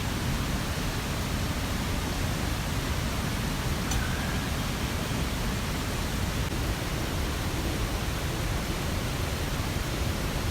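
Steady rushing of a mountain stream's running water, an even noise with no breaks.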